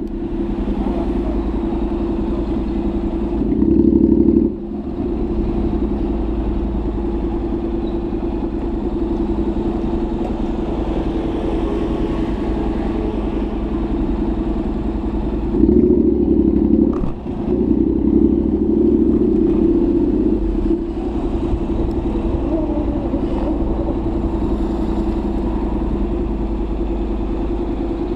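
Honda NC700X's parallel-twin engine running through a Danmoto XG-1 aftermarket exhaust while riding, a steady drone with louder stretches of throttle about four seconds in and again around sixteen to twenty seconds. The first two louder stretches each end in a brief sharp drop.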